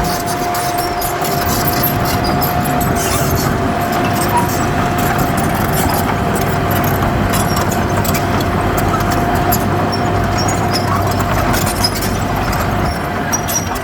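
Heavy diesel earthmoving machine running steadily, with a continuous high whine over the engine and scattered clicks and rattles.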